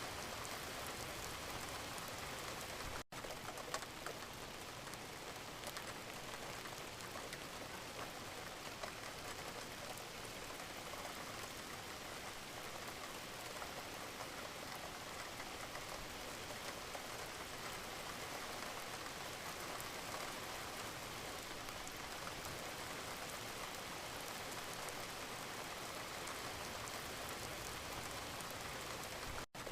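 Steady gentle rain, a dense even patter of drops falling on a surface. The sound cuts out for an instant about three seconds in and again near the end.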